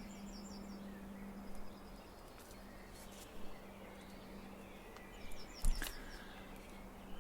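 Origami paper being handled and creased by hand: soft rustles and a few small crinkles, the most distinct cluster near the end, over a steady low hum.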